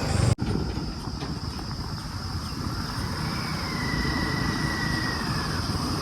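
Heavy diesel engine running steadily with a low rumble, cut by a brief dropout just after the start. A thin, high steady whine joins about halfway through.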